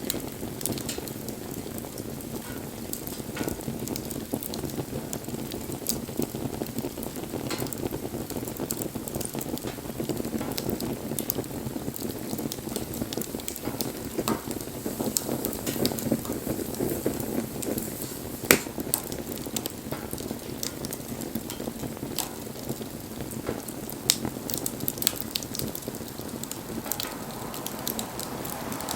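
Wood fire burning steadily with a low rushing of flames and scattered crackles and sharp pops from the burning wood, one loud snap about two-thirds of the way through.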